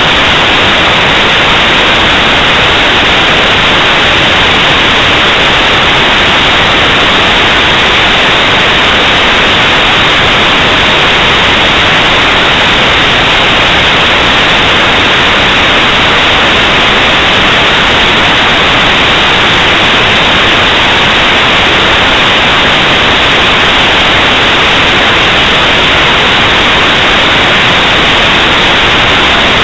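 Loud, steady static hiss with no change or break, strongest in the upper middle and cut off sharply above that.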